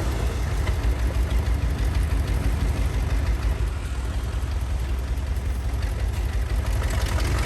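Diesel engine of a Komatsu D41P crawler bulldozer running steadily, low-pitched and loud.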